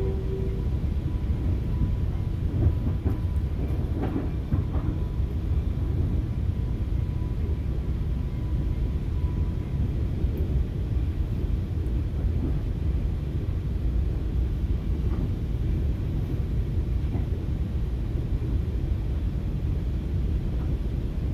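Steady low rumble of a FrontRunner commuter train rolling along the rails, heard from inside the passenger car. A faint thin high tone sits under it and fades out about halfway through.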